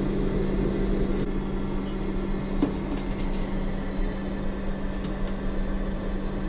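Steady in-flight cabin noise of a Boeing 747, heard inside its lavatory: a low, even rush of air and engine noise with a constant hum, and a couple of faint clicks.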